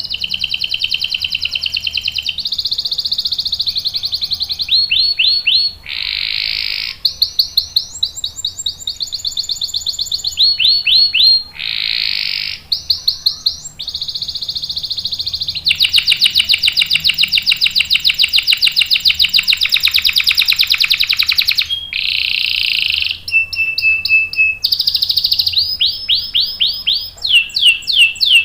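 Domestic canary singing a continuous song of rapid trills and rolls, the phrase changing every second or two, including one long unbroken roll of about six seconds past the middle.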